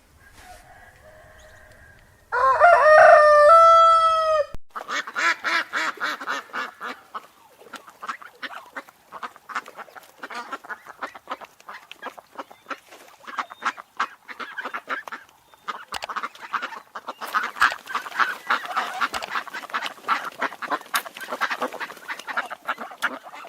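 A rooster crows once, loud and drawn out. Then a flock of farmyard waterfowl calls continuously, with many rapid overlapping honks and quacks.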